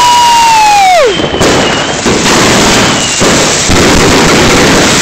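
A 100-shot 'Crackling Rain' firework cake firing: loud, dense crackling. A whistling tone slides down and stops about a second in.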